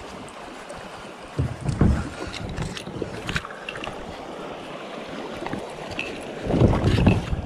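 Shallow river water running over rocks, a steady rushing hiss. Two louder low bursts of noise hit the microphone, about a second and a half in and again near the end.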